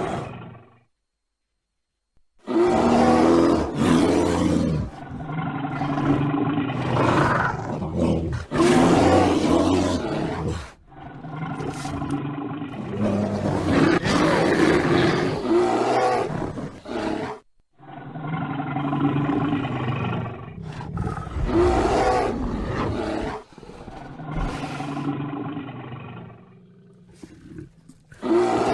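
Bear growling and roaring in a series of long, rough calls, with a short silence near the start and several abrupt jumps where separate recordings are cut together.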